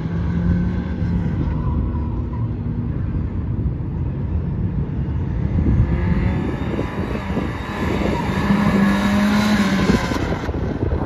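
1986 Porsche 944's four-cylinder engine driven hard on an autocross course, its pitch rising and falling as the revs change. A broad hiss builds about six seconds in.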